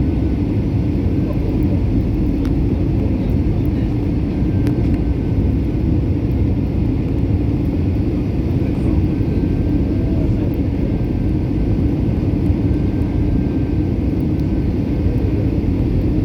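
Steady drone of an airliner's engines and airflow, heard from inside the passenger cabin.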